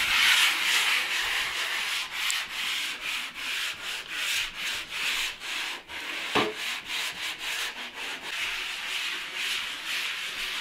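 Hand sanding of a painted fireplace surface with sandpaper between coats of heat-resistant paint: a steady rasping rub in repeated strokes, about two to three a second. There is a single sharper knock about six seconds in.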